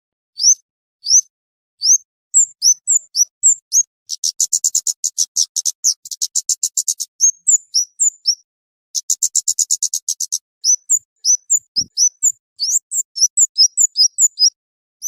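Flowerpecker lure calls: high, thin, short upward-sweeping chips repeated about once or twice a second. Two long, rapid ticking trills break in, one from about four to seven seconds and one from about nine to ten seconds.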